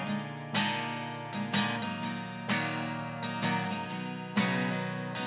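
Instrumental music: strummed acoustic guitar chords, a new strum every second or two.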